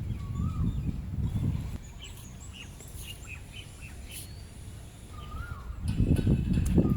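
Birds calling outdoors: one bird repeats a short whistled note that rises and falls, every few seconds, and other birds give quick higher chirps in between. A low rumble runs under the calls, dropping away in the middle and returning near the end.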